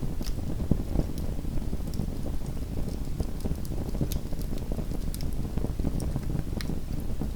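Small wood fire burning in a fireplace: a steady low rush with frequent sharp crackles and pops, several a second.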